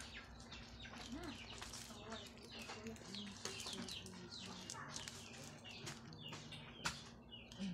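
Faint chirping of birds in the background, many short falling calls, with a single sharp click near the end.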